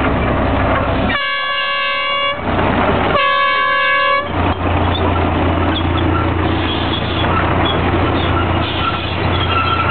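A steam whistle blows twice, two steady blasts of about a second each, a second apart, over the continuous noise of running steam machinery, which settles into a steady low hum after the second blast.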